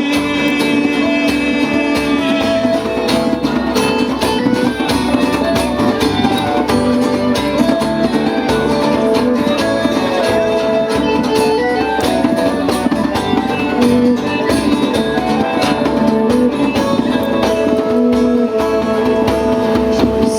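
A band plays an instrumental break: strummed acoustic guitar and bass under a line of held melody notes, with steady percussion keeping the beat.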